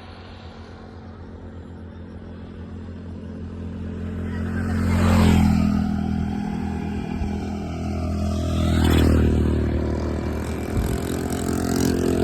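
Motorcycle engine running steadily while riding, with two louder swells as vehicles pass close by, about five and nine seconds in.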